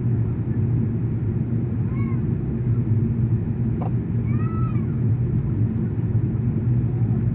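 Passenger jet's steady low rumble. Two short, high sounds rise and fall in pitch over it, about two and four and a half seconds in, and a single click comes between them.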